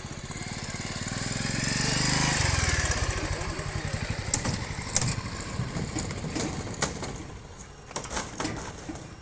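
A small engine passes close by, loudest about two and a half seconds in, its pitch dropping as it goes away. It is followed by scattered sharp knocks and clicks.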